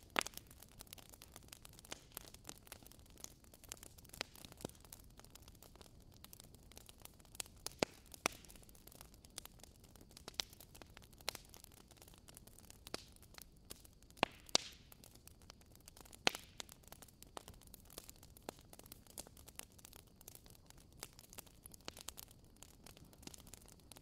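Fire crackling quietly: irregular sharp pops and snaps over a faint steady hiss, with a few louder pops scattered through, the strongest near the start and around the middle.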